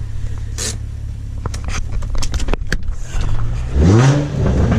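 Car engine running with a steady low hum, then revved up and back down about three seconds in, the loudest moment. A few light clicks come before the rev.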